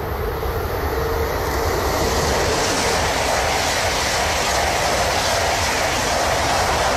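High-speed train passing at speed: a rushing noise that builds over the first couple of seconds and then holds steady and loud.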